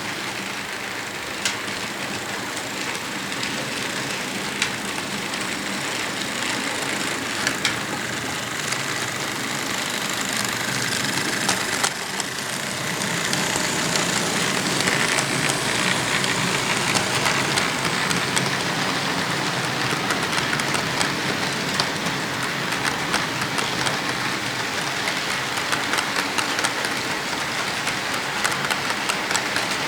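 Model train, led by an Atlas C40-8 model diesel locomotive, rolling along layout track: a steady rolling hiss from the wheels with many small clicks, getting louder about twelve seconds in.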